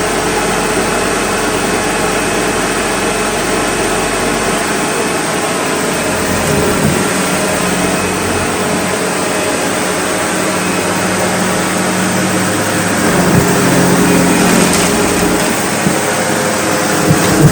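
SEBO Automatic X4 bagged upright vacuum cleaner running steadily as it is pushed through a pile of debris, a little louder in the latter part, with a few short knocks near the end.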